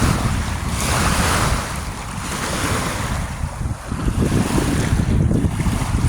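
Wind buffeting the microphone in gusts, a loud fluttering rumble with a hiss above it.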